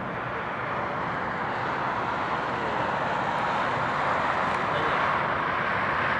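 Jet aircraft engines running as an airliner taxis, a steady rushing noise that grows gradually louder.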